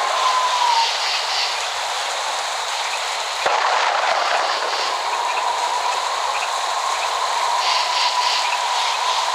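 Steady heavy rain with a single sharp crack of thunder about three and a half seconds in. A thin, steady high tone sounds under the rain at the start and again from about five seconds on.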